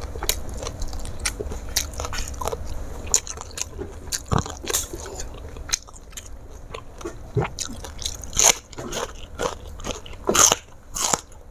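Close-up biting and crunching of raw vegetables, crisp irregular crackles with chewing in between, the loudest bites about eight and ten seconds in.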